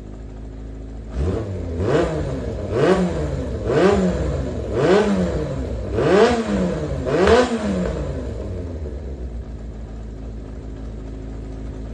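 Yamaha XJR400 air-cooled inline-four engine idling, then blipped six times in quick succession, about once a second, each rev rising and falling back, before settling back to a steady idle. The engine runs without abnormal noise, as the seller claims.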